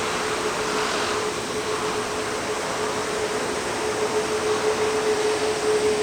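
Airbus A380's Rolls-Royce Trent 900 jet engines running steadily: an even rush of noise with a constant hum-like tone.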